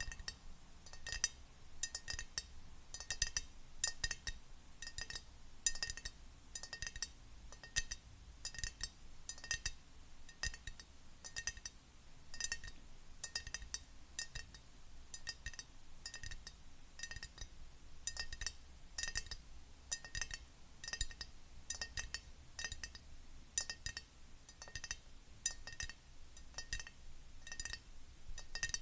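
Fingernails tapping on a glass object in quick, uneven runs, each tap giving a short, bright ring.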